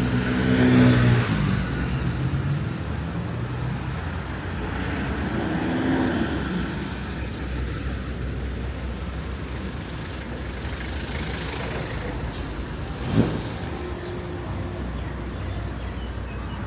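Street traffic: a motor vehicle's engine passes close about a second in, another passes around six seconds, over a steady traffic background, with a single sharp knock about thirteen seconds in.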